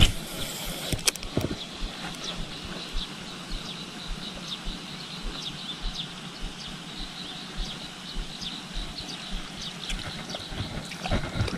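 Outdoor background of many short, high, falling chirps from birds, with a few sharp clicks about a second in and near the end.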